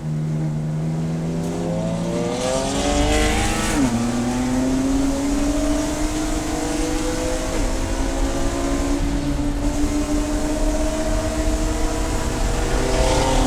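Race car engine accelerating through the gears: its pitch holds steady for about two seconds, climbs quickly, then drops sharply on an upshift about four seconds in. It climbs slowly from there, with further upshifts at about seven and a half seconds and near the end.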